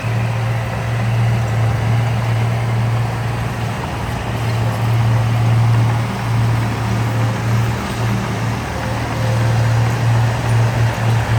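Heavy diesel engine of earthmoving machinery running steadily with a deep low hum, wavering a little near the end.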